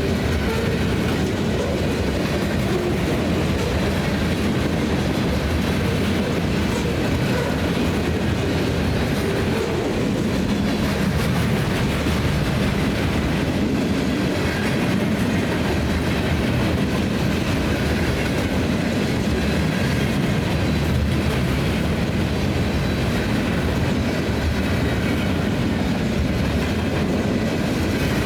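Train cars rolling past on the rails, a steady rumble with wheel clatter that doesn't let up.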